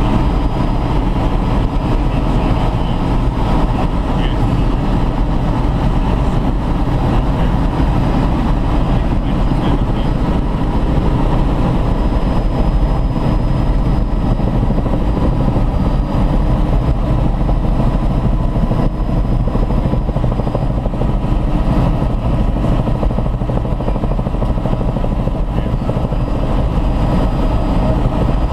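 Helicopter in flight heard from inside the cabin: a loud, steady drone of engine and rotor with a few faint steady tones running through it.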